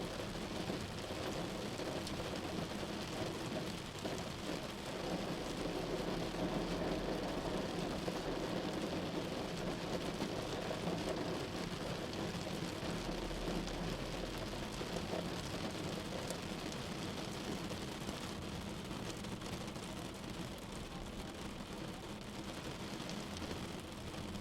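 Steady rain on a car's roof and windshield, heard from inside the car while driving, mixed with road and engine noise.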